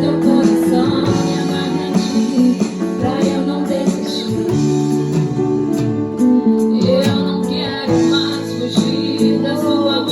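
Live worship band music: keyboard, electric guitar and drums playing a slow song with sustained chords.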